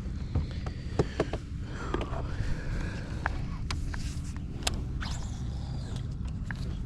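Small fishing boat being eased slowly forward: a steady low rumble with scattered knocks and clicks.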